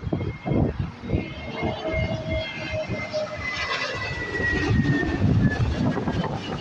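Airbus A320 jet airliner passing low overhead on landing approach: a steady engine whine slowly falling in pitch as it goes by, over a low rumble.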